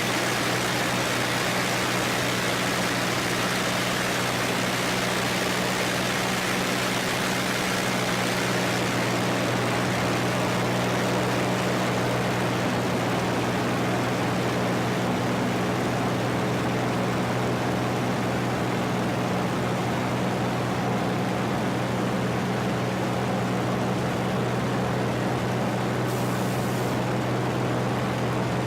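Rolls-Royce Merlin V12 engine of a Supermarine Spitfire Mark IX running steadily: a constant low drone holding one pitch, with a broad rushing hiss over it.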